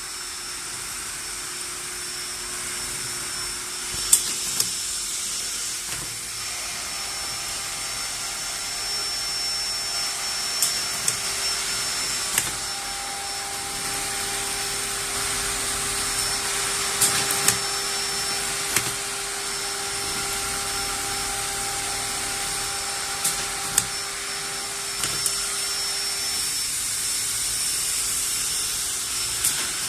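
Automatic wide-area industrial sewing machine running: a steady motor hum with a few held tones, broken by occasional sharp clicks.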